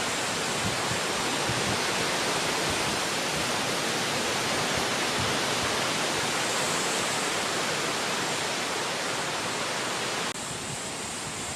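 Wind blowing through forest trees: a steady, even rushing hiss that drops abruptly to a slightly lower level about ten seconds in.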